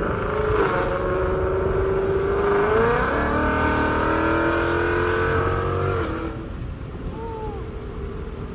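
Ford Mustang GT 5.0 V8 with long-tube headers and Corsa Xtreme exhaust at hard acceleration, revs climbing with a brief break near the start and another about three seconds in. About six seconds in the throttle closes and the exhaust settles to a quieter, lower cruising drone.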